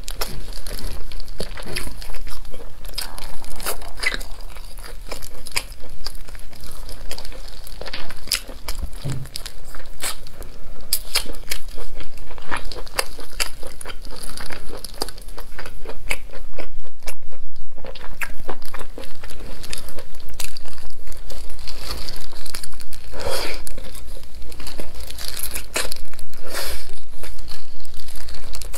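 Chewing and crunching a mouthful of chicken, with the crinkle of a disposable plastic glove as the hands pull the pieces apart. From about halfway on the chewing falls into a steady rhythm of about three chews a second.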